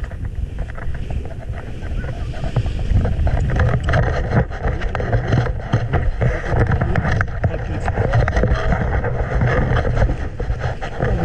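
Wind buffeting the microphone in a steady low rumble, with faint voices mixed in.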